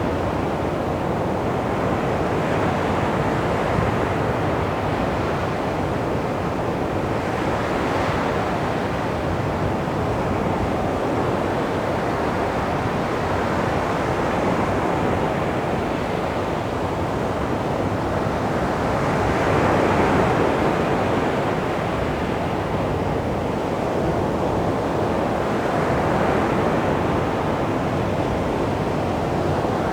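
Sea waves breaking on a beach: a continuous wash of surf that swells and fades every few seconds, with the biggest wave about two-thirds of the way through.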